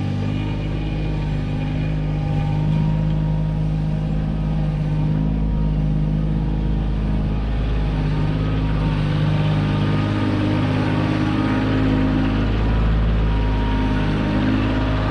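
Kioti tractor's diesel engine running steadily while working its backhoe, with the pitch holding nearly constant.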